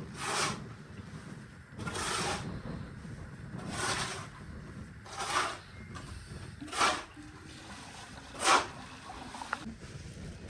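Hand saw cutting wood in slow, even strokes: six rasping strokes, about one every one and a half seconds.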